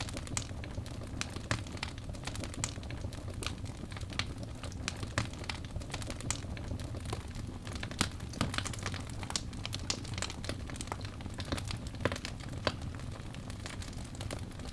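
Crackling fire: irregular sharp pops and snaps, several a second, over a low steady rumble.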